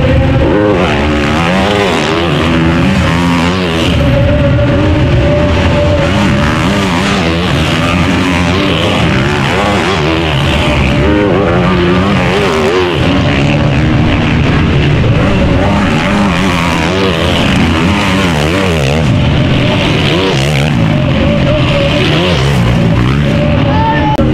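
Several motocross bike engines running at once, their pitches constantly rising and falling as the riders open and close the throttle around the track.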